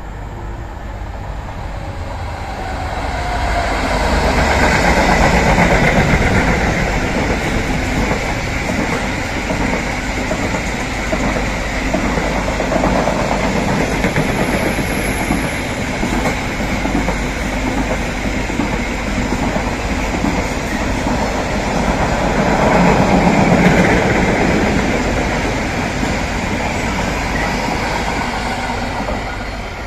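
A train passing at length. Its noise builds over the first few seconds, is loudest about five seconds in and again after about twenty-three seconds, then eases off near the end.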